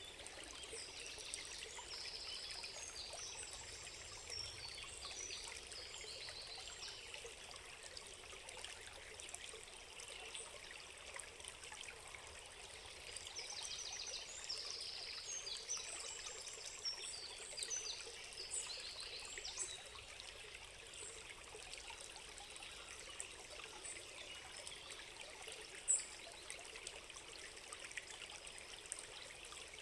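A stream trickling steadily, with small songbirds singing high chirps and trills over it, busiest in the first few seconds and again from about 13 to 20 seconds in.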